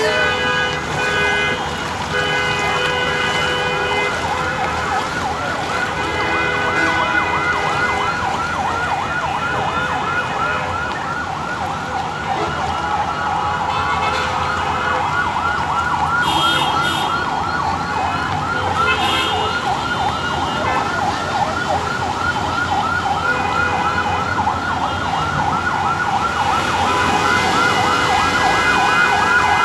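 Emergency vehicle siren on a highway, wailing in a fast, repeating yelp that grows louder near the end as it approaches. Steady vehicle horn tones sound over it in the first half.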